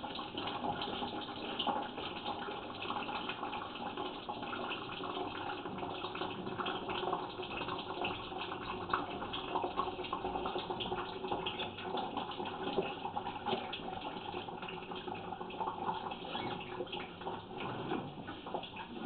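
Water running steadily down a washing-machine drain pipe as more water is poured in, a test for a leak in the line.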